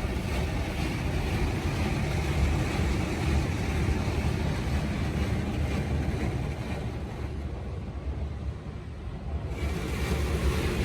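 Automated truck wash running: a steady low rumble with a broad spraying hiss, the hiss fading for a couple of seconds after the middle and then coming back.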